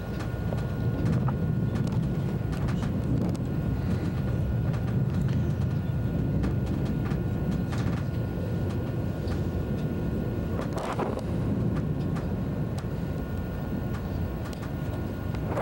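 Steady rumble of a first-generation ICE high-speed train running at speed, heard on board, with faint light clicks here and there.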